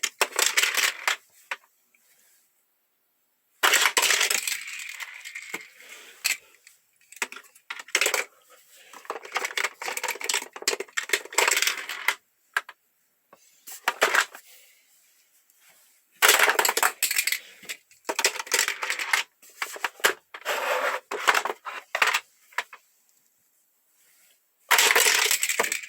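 Die-cast Hot Wheels cars launched again and again along a plastic track set, clattering and rattling in bursts of one to two and a half seconds with short quiet gaps between runs.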